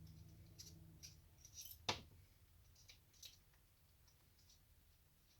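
Faint, scattered clicks of small metal tools and screws being handled, with one sharper click about two seconds in.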